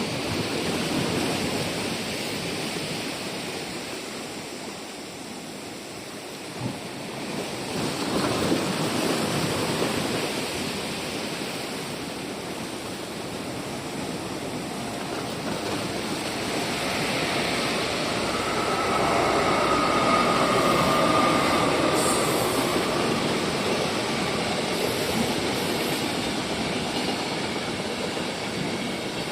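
A train passing on the coastal line, its rolling rumble swelling and fading twice, loudest about two-thirds of the way through, with a faint steady whine over it at that point.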